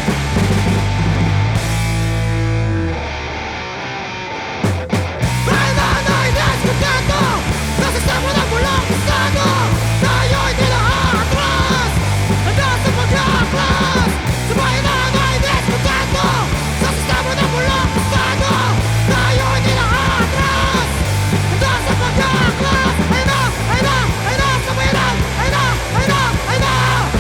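Loud punk/hardcore rock music: heavy drums and distorted guitars with shouted vocals. The sound thins to a brief quieter passage about three seconds in, then the full band crashes back in about five seconds in and keeps going.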